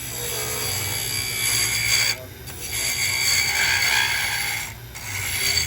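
Small wood lathe spinning a wooden hairpin while a tool scrapes the turning wood in three long strokes, with short breaks a little after two seconds and near five seconds, over the lathe's steady low hum.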